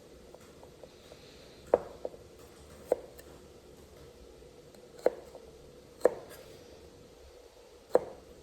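Kitchen knife cutting through food and striking a cutting board: about six separate sharp cuts, irregularly spaced a second or two apart.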